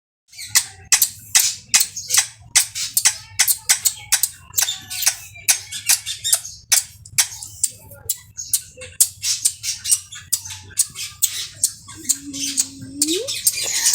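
Pet parrot giving a fast run of short, harsh squawks, about three a second, with a short rising call near the end.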